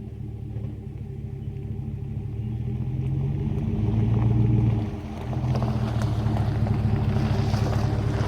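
Exhaust note of a 5.3L EcoTec3 V8 running through a Jones JT3030 turbine muffler, a steady low engine tone. It grows louder over the first four seconds, drops briefly about five seconds in, then holds steady with rising wind and road hiss.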